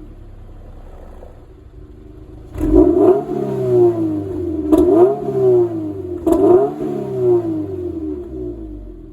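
Subaru BRZ flat-four engine heard through a stock muffler with its insides hollowed out: idling, then blipped three times in quick succession, the pitch falling back after each rev before settling to idle near the end.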